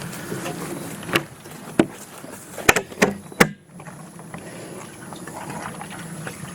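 Hydraulic oil being poured into a tractor's hydraulic fill hole, a steady pouring splash, to flush out the old fluid. A few sharp knocks sound in the first half.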